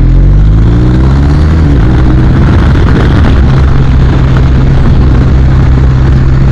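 BMW R 1250 RT's boxer-twin engine accelerating, rising in pitch for about a second and a half, then running steadily at speed.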